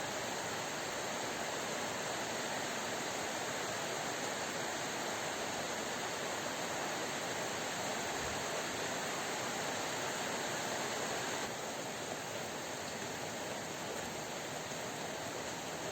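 Heavy rain pouring down in a steady, even hiss, easing a little about eleven seconds in.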